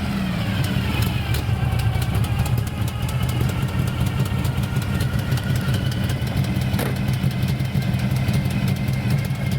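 Car engine idling steadily just after starting, its speed settling in the first second. A single sharp click about seven seconds in.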